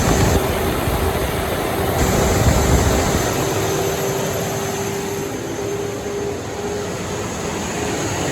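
Cat C15 diesel engine of a Kenworth W900 running loud on a chassis dyno, with a steady whine riding over the noise.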